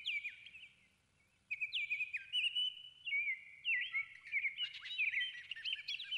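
Songbirds chirping: quick, twittering notes and short whistled sweeps, one bird after another. They fall silent for a moment about a second in, then grow busier near the end.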